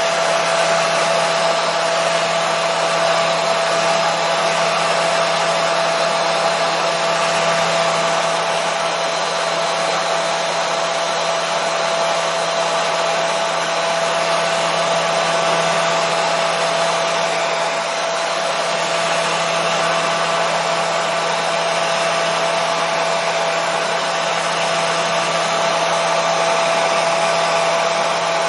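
Hair dryer running continuously at a steady setting: an even whooshing hiss of blown air with a constant motor hum underneath, used as white noise to settle a colicky baby.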